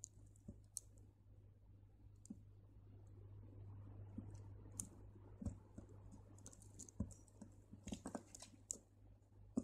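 Faint, scattered small clicks of crystal beads knocking together as a thread is passed through them by hand, more frequent near the end, over a low steady hum.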